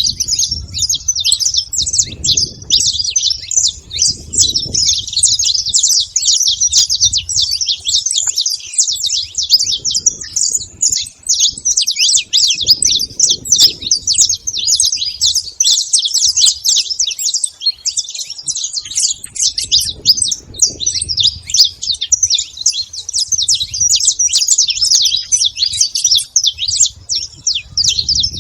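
A flock of saffron finches chirping and calling together in a dense, unbroken chorus, with a low rumble now and then.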